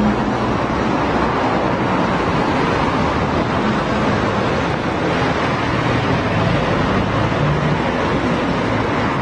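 Steady road traffic noise: a continuous wash of passing cars, with the low hum of engines rising and falling underneath.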